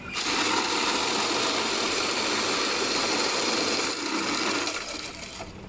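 Electric ice shaver grinding a block of ice for a shaved-ice dessert: a loud, steady, rough noise that starts suddenly and dies away after about four and a half seconds.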